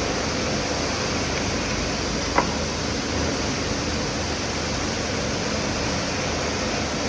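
Steady, even hiss of noise, with one sharp click about two and a half seconds in.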